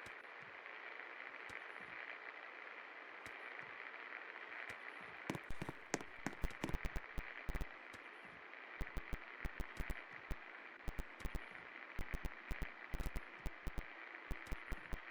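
Hunter Savoy Deluxe ceiling fan running with a steady whirring hiss. From about five seconds in, many irregular sharp clicks and knocks sound over it.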